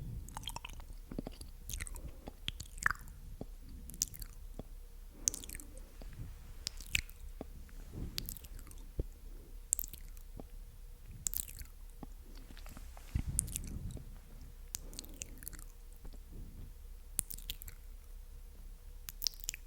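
Close-miked ASMR mouth sounds: wet, sticky clicks and smacks of the lips and tongue, coming irregularly, a few each second.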